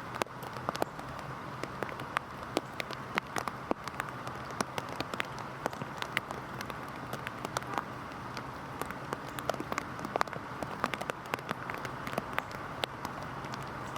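Heavy rain falling steadily: a constant hiss of rainfall with many distinct, sharp drops tapping on a surface close by, at an irregular pace.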